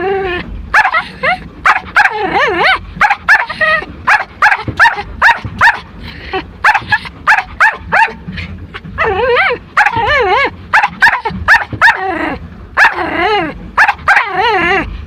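Pomeranian barking over and over in short, high yaps, with wavering whines between the barks.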